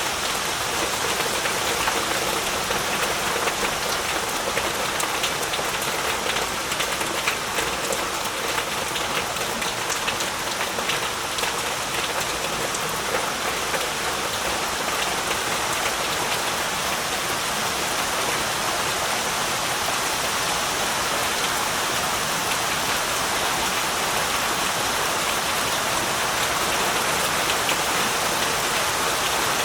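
Heavy rain falling steadily, a dense even hiss with many individual drops pattering on surfaces.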